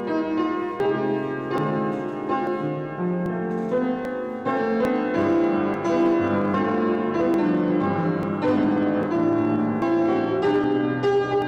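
Piano playing a steady, flowing piece of music with many notes, the postlude closing a church service.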